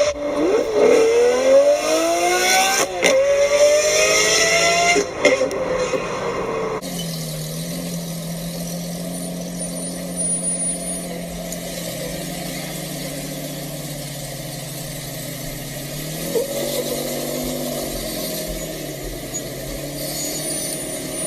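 A car engine revving hard, its pitch climbing, dropping briefly about three seconds in as it shifts, then climbing again. After a sudden cut a few seconds later, an engine runs low and steady, with one short rev rising and falling later on.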